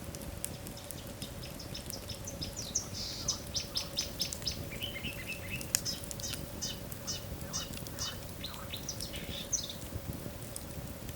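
Wood fire in a fireplace crackling, with scattered sharp pops over a steady hiss. From about two seconds in until near the end, a quick run of high chirping notes sounds over it, several a second.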